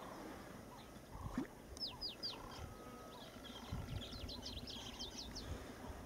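Birds chirping in short, high, falling notes: a run of three about two seconds in, then a quicker flurry a couple of seconds later, over faint outdoor hiss with a few soft low thumps.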